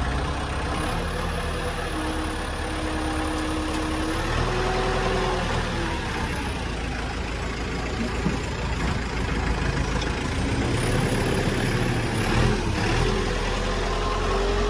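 An engine running steadily, its pitch rising and falling a few times, with a thin high whine coming and going.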